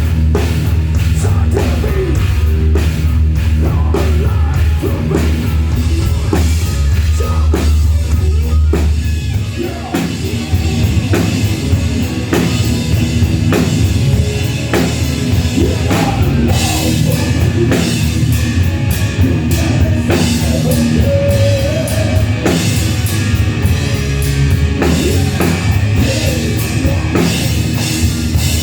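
A loud rock band playing live at a sound check, drum kit prominent over a heavy bass, with a brief drop in the music about ten seconds in.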